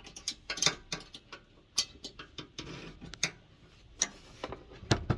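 Ratchet and socket clicking in short, irregular runs as the heater's bolts are worked loose, mixed with light metal clinks. Two louder metal knocks come near the end.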